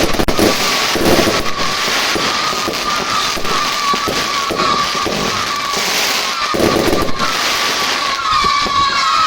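Consumer fireworks going off: a dense, continuous barrage of bangs and crackling. Over it runs a steady high whistle, and near the end come repeated short whistling glides.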